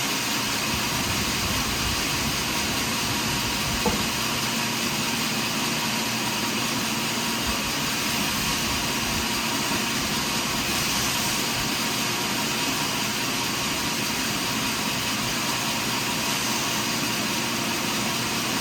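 Sawmill machinery running steadily: a continuous, even mechanical noise, with one sharp click about four seconds in.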